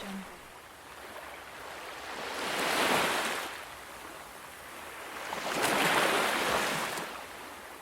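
Ocean surf: waves breaking and washing in, the hiss swelling to a peak about three seconds in and again about six seconds in, falling back between them.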